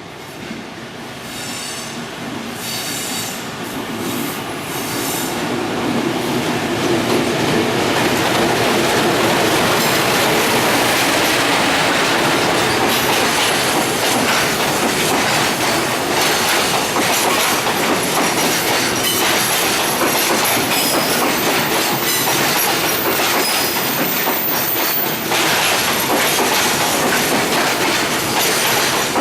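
Container freight train rolling past on its way into the station, growing louder over the first several seconds and then holding a steady loud rumble with wheel clatter. From about halfway in, a thin high squeal of wheels on rail sits above it.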